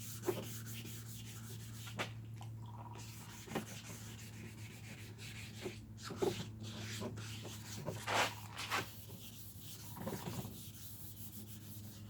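Wet sandpaper, 320 grit, scuffing a plastic motorcycle part by hand in irregular short rubbing strokes, a few of them louder. This roughens the glossy surface so that adhesion promoter and paint will stick.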